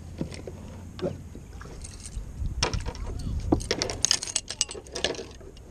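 Handling noise in a kayak: a dense run of quick clicks, rattles and knocks, beginning about two and a half seconds in and stopping shortly before the end, over a low steady rumble.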